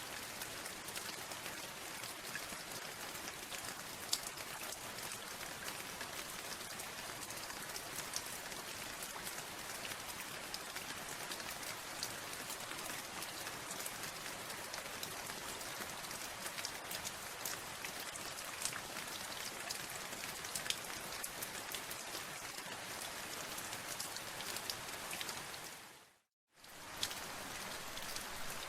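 Steady rain with many distinct drops ticking through it. Near the end it fades out to silence for about half a second and then resumes.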